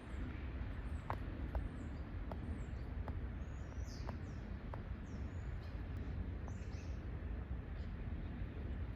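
Small birds chirping several times in short high calls, over a steady low rumble, with a few faint soft ticks.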